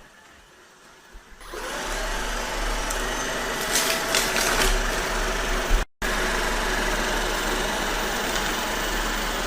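Shark ION AV752 robot vacuum running, a steady whir from its suction motor and brushes that starts about a second and a half in. A short flurry of sharp clicks comes around four seconds in, and the sound cuts out for a moment just before six seconds.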